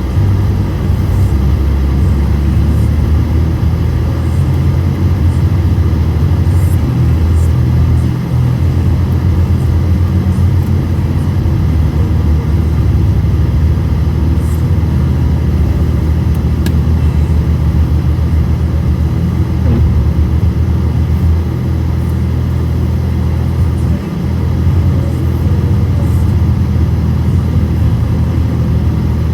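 Car driving at a steady pace: a continuous low rumble of engine and road noise, heard from inside the cabin by a dash cam.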